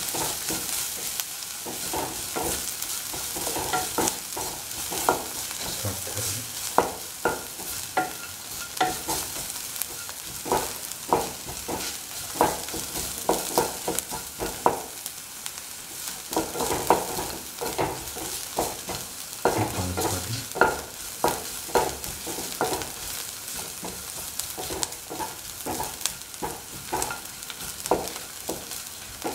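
Sliced shallots and dried Kashmiri chillies sizzling in hot oil in a pan, a steady hiss, while a utensil stirs them with repeated irregular scrapes and taps against the pan.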